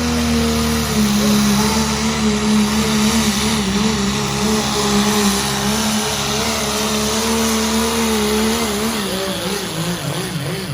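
Engine of a pulling vehicle running hard at high revs under heavy load, its pitch holding steady for most of the pass. Near the end the pitch drops and wavers.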